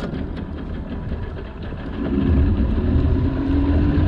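Old two-stroke outboard motor running, getting louder about two seconds in as it is throttled up.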